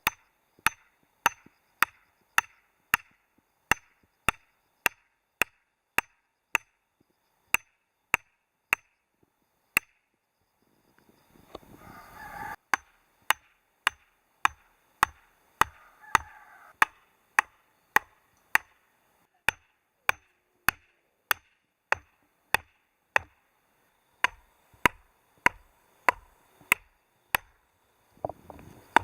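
Steady chopping: sharp, evenly spaced strikes about two a second, with a pause of a couple of seconds partway through before the strikes resume.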